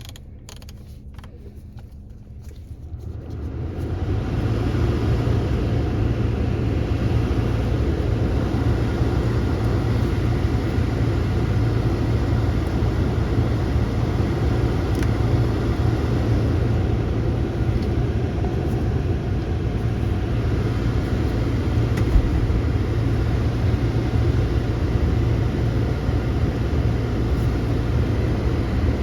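2006 Volvo S60 2.0T's B5204T turbocharged inline-five engine running steadily. It is quieter at first and comes up to a constant, even level about three to four seconds in.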